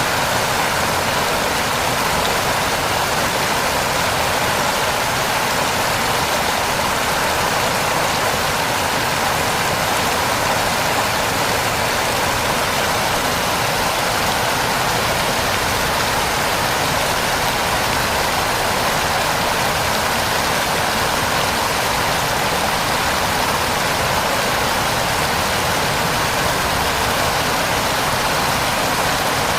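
Heavy rain falling in a steady, even hiss that doesn't change.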